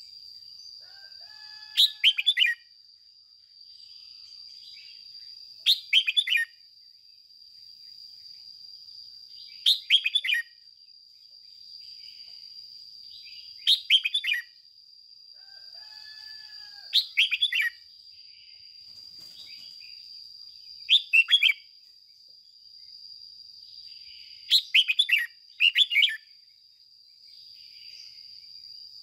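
Red-whiskered bulbul singing short, bright phrases of quick falling notes, one burst roughly every four seconds, over a steady high-pitched whine.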